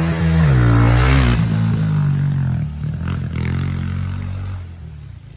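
Dirt bike engine revving hard, its pitch rising and falling in the first second and a half, with a smaller second rev about three seconds in before it fades away.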